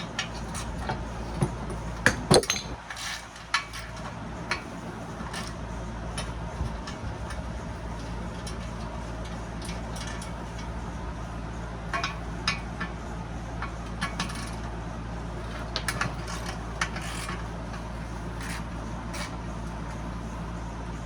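Hand tools and metal saw parts clinking and clanking now and then, with the loudest clanks about two seconds in and more small clicks later, over a steady low hum.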